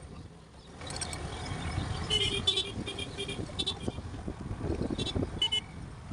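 Road noise from a moving motorbike, with a vehicle horn honking in several short toots over a few seconds.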